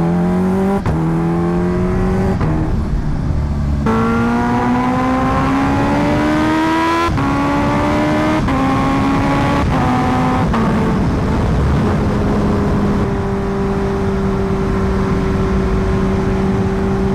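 Kawasaki Ninja H2R's supercharged 998 cc inline-four accelerating through several gears. The pitch climbs and then drops at each quick upshift, about half a dozen times, before the engine settles into a steady cruise about twelve seconds in. Wind rush is on the microphone throughout.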